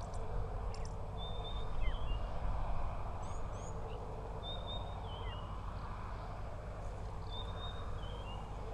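A wild bird calling a short phrase that steps down in pitch, three times about three seconds apart, with a few brief higher chirps between, over a steady low outdoor rumble.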